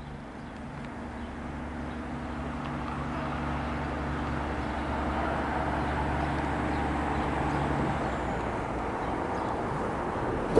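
West Midlands Railway Class 150 Sprinter diesel multiple unit approaching, its diesel engine droning and growing steadily louder; the engine's humming note drops away about eight seconds in as the unit coasts in.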